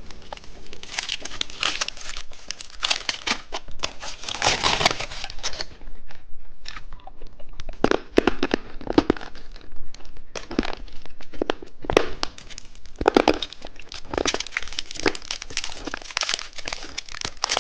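Plastic candy packaging crinkling and rustling in irregular bursts as it is handled.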